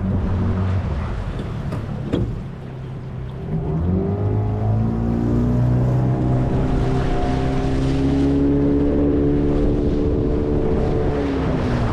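Small boat's motor running, throttled back about two seconds in, then speeding up with a rising pitch around four seconds and holding steady, before easing off near the end.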